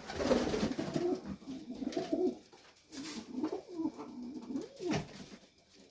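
Domestic pigeons cooing in a loft, several low cooing phrases one after another, with a few light clicks among them.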